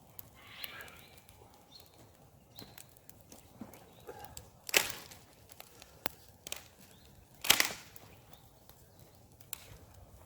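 Campfire crackling with scattered sharp pops and clicks, and two louder short rushing bursts about five and seven and a half seconds in.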